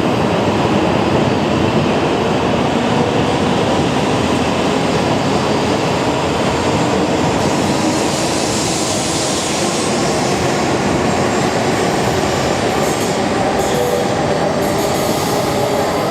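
Shinkansen train moving along the platform: a loud, steady rushing noise with faint steady tones, and a few brief high squeals near the end.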